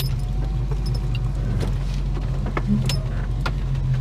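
Holden HK car engine running steadily at low revs, heard from inside the cabin, with a few light clicks and rattles.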